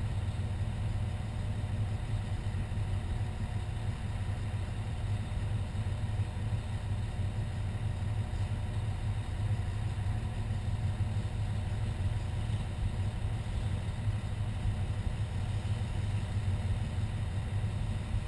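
Fire engine's engine running steadily, a constant low hum with no siren.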